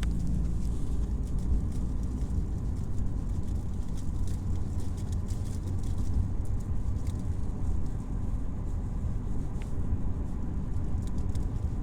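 Steady low rumble of a car on the move, engine and road noise heard from inside the cabin, with faint scattered ticks over it.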